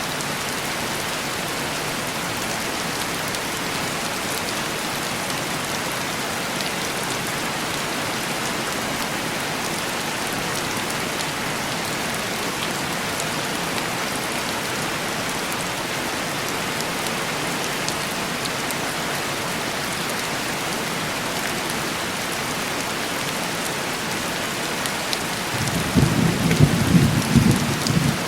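Heavy rain falling steadily on window glass, an even hiss. Near the end a low roll of thunder rumbles for a couple of seconds, the loudest sound here.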